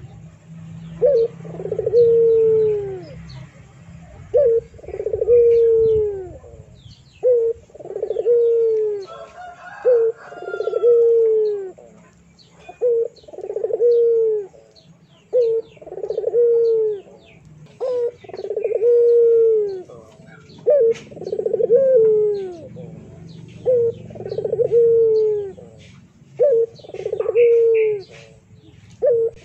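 A bird cooing over and over, each call a short note followed by a longer falling note, repeated about every two and a half seconds. Fainter high chirps from other birds run underneath.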